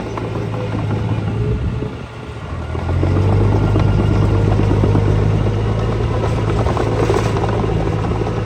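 Diesel engine of heavy earthmoving machinery running; it eases off about two seconds in, then picks up louder and holds a steady run.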